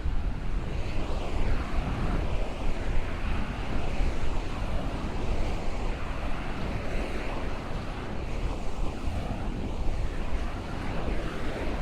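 Ocean waves breaking along the shore, with wind buffeting the microphone in a steady, rumbling wash.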